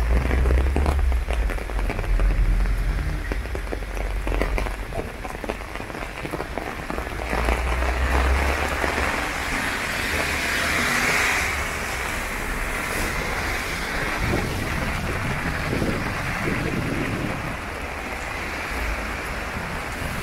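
Heavy rain falling on an umbrella overhead: a dense, steady patter of close drops. Around the middle, a car passes on the wet road, its tyre hiss swelling and fading.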